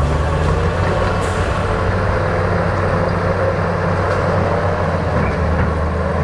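Bulldozer engine running steadily under load, a continuous low drone.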